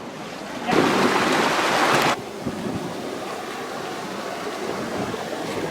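Rushing water of a mountain creek, a steady noisy rush. About a second in, a louder rush of noise starts and stops abruptly over roughly a second and a half.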